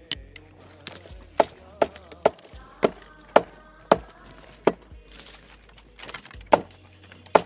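Repeated chopping: about nine sharp strikes at an uneven pace, with a pause of nearly two seconds in the middle.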